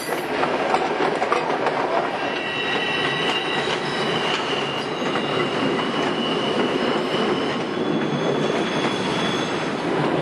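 White Pass & Yukon Route passenger train running, heard from aboard: a steady rumble of wheels on rail, with a thin, high wheel squeal from about two seconds in until near the end as the train rounds the curving mountain track.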